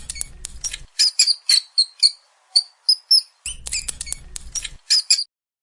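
Rapid high-pitched squeaks and chirps from a small animal, in quick runs with short gaps, over a low hum that comes and goes; it all stops suddenly a little after five seconds in.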